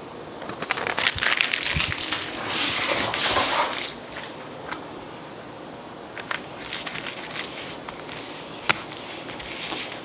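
Packing material crinkling and crackling as an order is wrapped, loudest in the first few seconds, then lighter rustles and scattered sharp clicks and taps.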